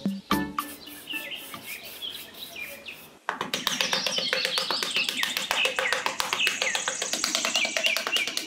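Birds chirping over a fast ticking rhythm, as in a background soundtrack. It fades out, then comes back suddenly and louder about three seconds in.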